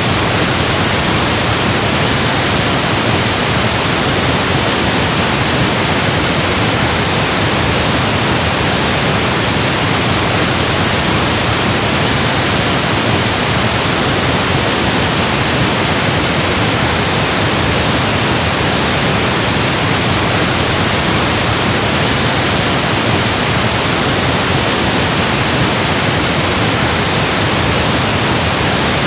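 Steady, even pink noise: electronically generated random noise, unchanging throughout.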